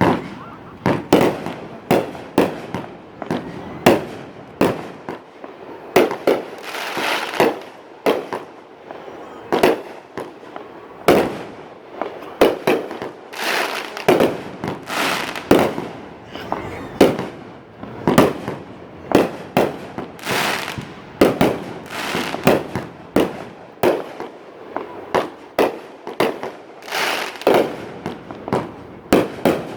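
Aerial fireworks display: a steady, rapid run of shell bursts, about one or two sharp bangs a second, all through.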